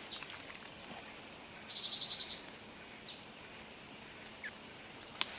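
Forest birds calling over a steady high insect drone: short high chirps in pairs, and a quick rattling trill about two seconds in. A sharp click near the end.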